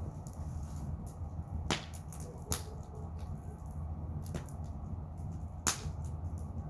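Wood bonfire crackling, with sharp pops at irregular intervals, three of them louder than the rest, over a low steady rumble.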